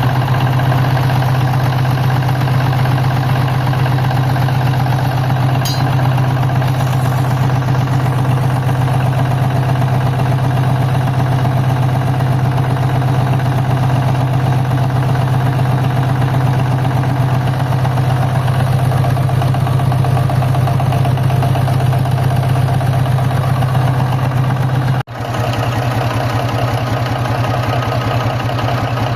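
Diesel engine idling steadily, with a strong low hum and an even running sound. It breaks off for an instant near the end, then carries on idling.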